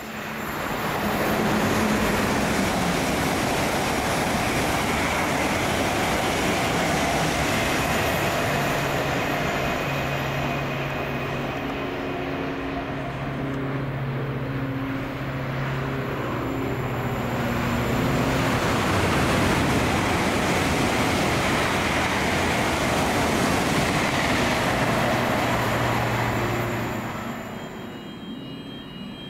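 Passenger train passing at speed on the main line: a long rush of wheel and air noise with a low hum under it. It swells about a second in, holds with a slight dip midway, and dies away near the end.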